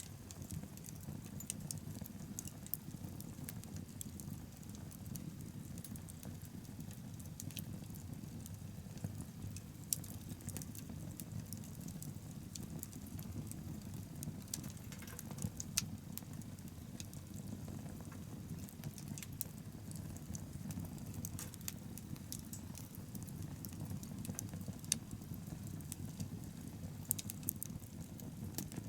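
Wood bonfire burning: a steady low sound from the flames with irregular sharp crackles and pops from the burning wood.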